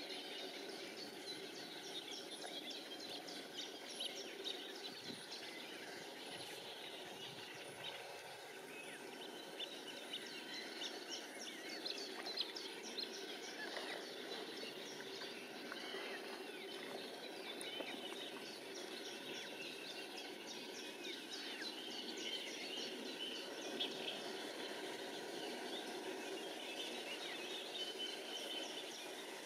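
Many small bird chirps and calls, over a steady outdoor background hiss.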